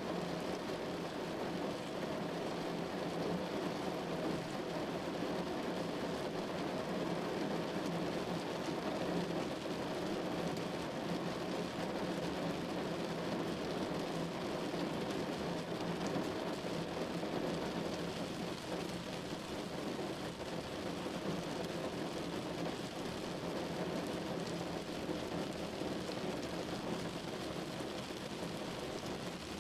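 Steady rain falling on a window, an even unbroken wash of sound with no single drops or events standing out.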